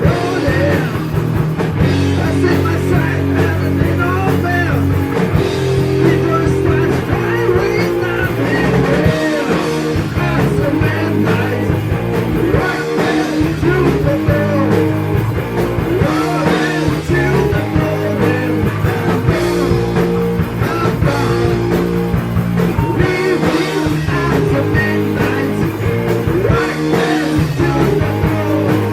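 A heavy metal band playing loud rock with electric guitar, continuously throughout.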